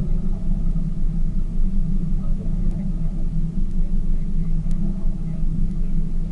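Tour boat's motor running steadily, heard from aboard as a low, even drone.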